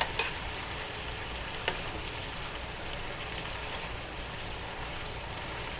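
Stir-fry vegetables sizzling in a pan as their water boils off, a steady hiss with a couple of light clicks.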